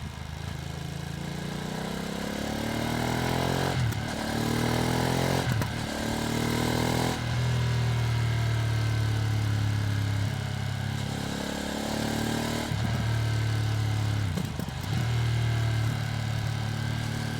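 Ducati Streetfighter V2S motorcycle's V-twin engine under way, its pitch climbing through the gears with short breaks at the upshifts about four, five and a half and seven seconds in, then holding a steady pitch before two more quick gear changes later on. The bike is being run in, kept to moderate revs.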